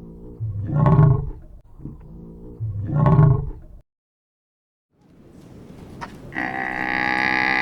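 Recorded animal calls: a deep, rough call played twice in a row, identically, then after a short silence a different long, drawn-out call that swells and holds near the end.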